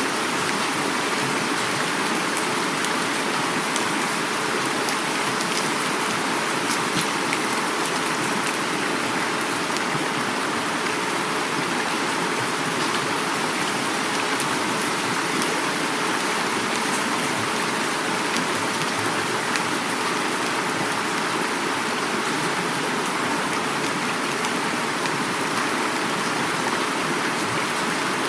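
Heavy rain falling steadily, with many fine drop patters, over the continuous rush of a flowing river.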